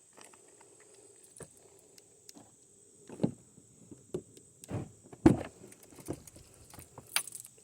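Footsteps crunching through dry leaf litter on a forest floor, irregular steps starting about three seconds in with the loudest just past the middle, over a faint steady high-pitched hum.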